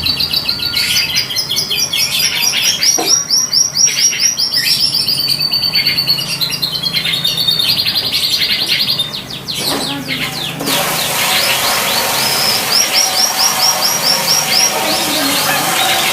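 Canary singing a long, continuous song of fast trills and rolls of rapidly repeated high notes. About ten seconds in, a background hiss comes up under the song.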